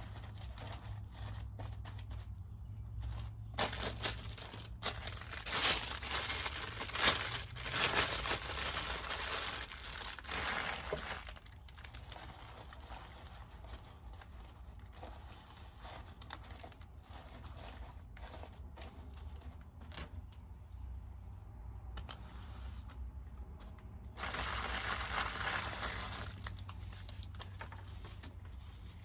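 Easter basket shred crinkling and rustling as it is handled and packed into a basket. The sound comes in two busy spells, a longer one starting a few seconds in and a shorter one near the end, with scattered lighter crackles between.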